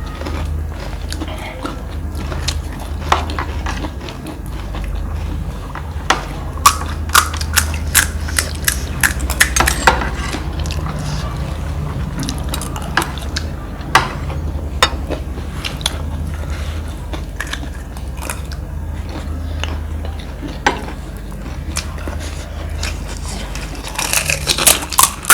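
Mouth-close eating: crisp panipuri shells and chatpate crunched between the teeth and chewed, in clusters of sharp cracking crunches. A steady low hum runs underneath.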